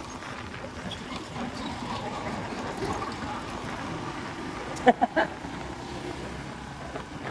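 Motorcycle on the move: steady wind and road noise on the microphone, with the engine underneath. About five seconds in come two short, loud pitched sounds in quick succession.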